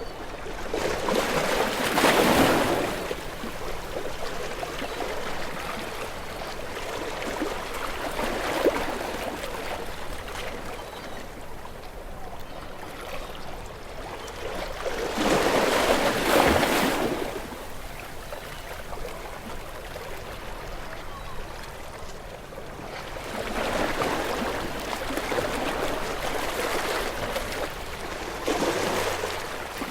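Ocean waves breaking and washing up the shore, each one a swell of rushing noise that rises and falls away. The biggest waves break about two seconds in and again around the middle, with smaller ones in between and near the end.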